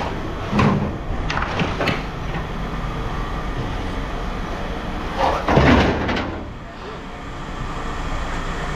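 A steady low engine rumble with several short knocks and clatters over it, the loudest a longer clatter about five and a half seconds in.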